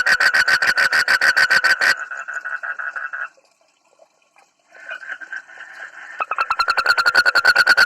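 A frog calling in a loud, rapid, even train of pulses. The call turns fainter about two seconds in, stops almost entirely for a moment midway, then comes back at full strength near the end.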